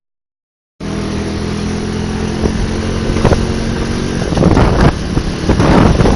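After a short dead gap, a motorcycle engine runs steadily while riding. Uneven rushing surges grow louder in the second half.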